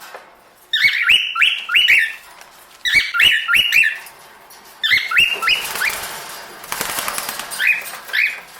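Cockatiel chirping: about four quick bursts of several sharp, whistled notes that bend up and down, with a brief rustling noise between the third and fourth bursts.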